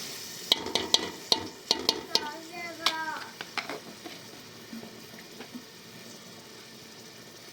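A quick run of about a dozen sharp clicks and knocks over the first few seconds, with a brief voice among them near three seconds. A steady faint hiss follows.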